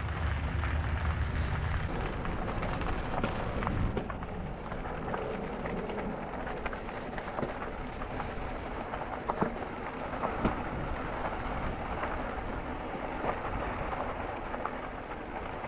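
Wind rumbling on the microphone and tyre noise from an e-bike rolling along a trail, with scattered small clicks and crackles. The low wind rumble is heaviest in the first few seconds.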